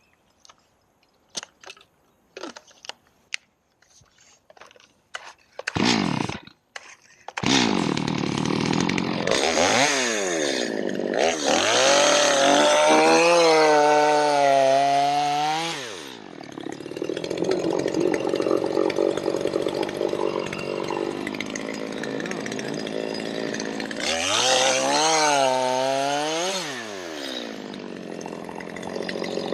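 A few light knocks and clicks, then a gasoline chainsaw starts about six or seven seconds in and runs loudly, revving up and down as it cuts into the log.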